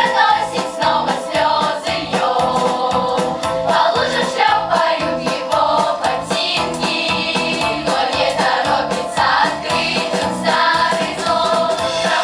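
Children's choir singing a pop-style song over a recorded backing track with a steady beat.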